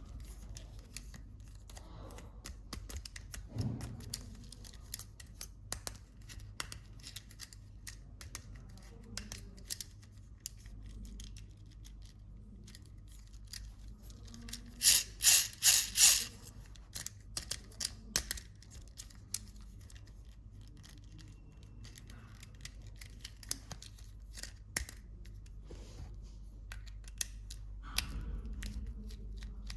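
Toy packaging being unpacked by hand: scattered small plastic clicks and rustles, with a quick run of about four loud, sharp snips about halfway through, like scissors cutting through packaging.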